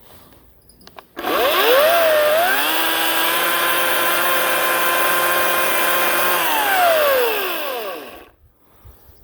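Ryobi 18-inch battery-powered electric chainsaw starting suddenly about a second in and rising to a steady high whine for several seconds. Its pitch then falls as it winds down and stops near the end.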